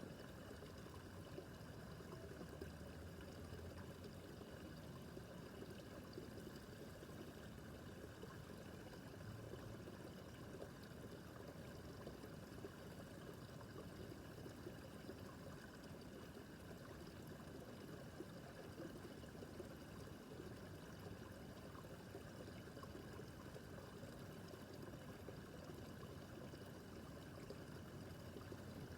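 Babbling brook: a faint, steady flow of running water with no pauses or changes.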